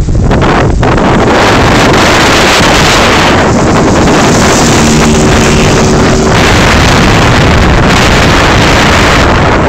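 110cc pit bike's small single-cylinder four-stroke engine running, loud and heavily buffeted by wind on the microphone, which turns most of it into a rushing noise.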